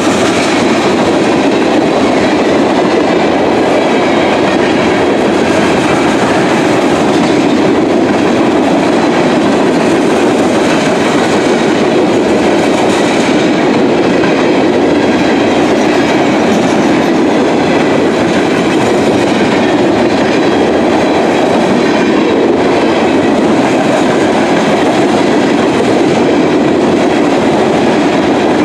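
Loaded coal hopper cars of a freight train rolling past, their steel wheels on the rails making a steady, loud rolling noise.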